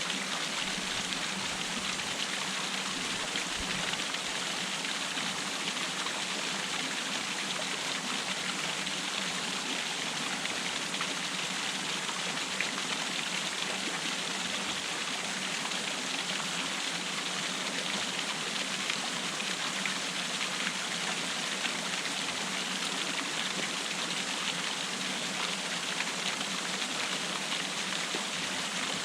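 Waterfall splashing: a steady, unbroken rush of falling water, bright and hissy with little low rumble.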